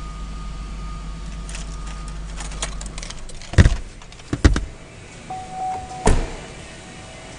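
The 2005 Chevrolet Equinox's 3.4-litre V6 running at a steady low hum, switched off about three seconds in. Three sharp thumps and a short electronic chime follow.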